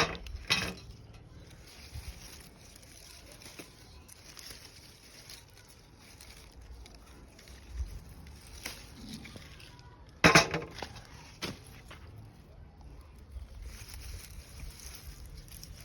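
Tomato plants rustling and being handled as ripe tomatoes are picked, with scattered small snaps and clicks and two louder rustles, one near the start and one about ten seconds in.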